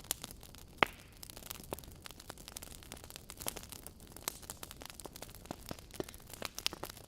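Wood fire crackling: irregular sharp pops and snaps over a faint hiss, the loudest pop a little under a second in.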